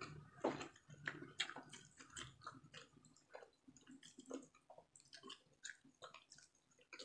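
Chewing of fried fish: soft, irregular wet clicks and smacks of the mouth, busiest in the first few seconds and thinning out after.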